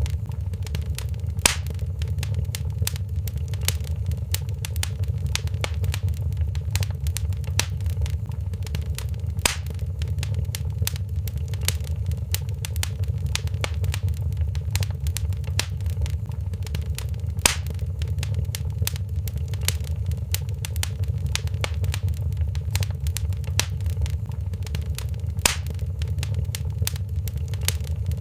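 Wood fire crackling in a fireplace: a steady low rumble of the flames under constant small snaps, with a louder pop about every eight seconds.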